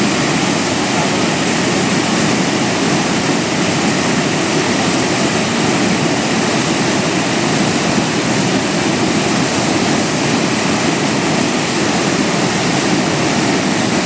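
Loud, steady roar of rushing floodwater, a swollen hill stream or river in torrent.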